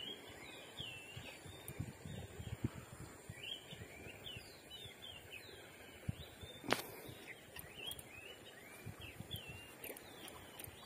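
Small birds chirping with many short, quick calls over faint outdoor background noise, with one sharp click about two-thirds of the way through.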